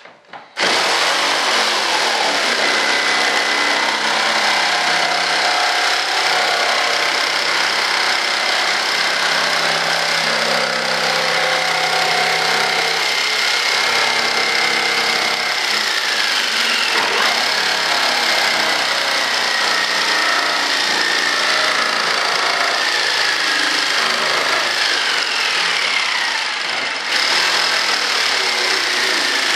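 A power tool switches on about half a second in and runs steadily and loudly, its pitch now and then gliding downward as it works.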